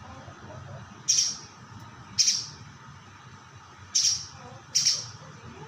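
Spiderhunter calling: four short, sharp high-pitched calls at uneven gaps of about one to two seconds.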